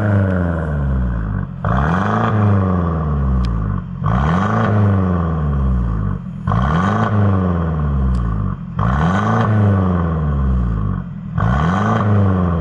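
Mercedes-Benz W213 E300's turbocharged four-cylinder engine through an aftermarket valved full exhaust, revved repeatedly: about five or six rises and falls in pitch, each roughly two seconds long with a short drop between them.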